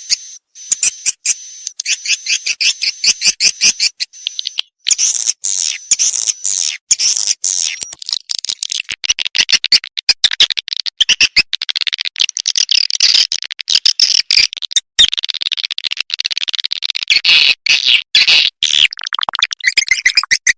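Edible-nest swiftlet calling sound, a recorded lure track of the kind played in swiftlet houses: high chirps repeating about five times a second, giving way about five seconds in to dense, overlapping twittering.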